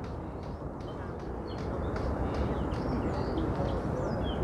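Small birds chirping in short, high, falling notes, several times and more often in the second half, over a steady rushing outdoor background noise.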